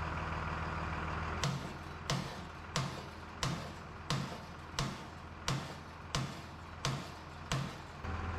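Ten evenly spaced sharp knocks, about three every two seconds, each with a short low thud. A steady low engine-like hum stops about a second and a half in and comes back near the end.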